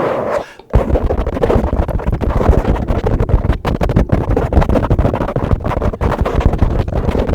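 Microphone being brushed fast: dense, scratchy brushing strokes in quick succession with a heavy low rumble, starting again after a brief pause just under a second in.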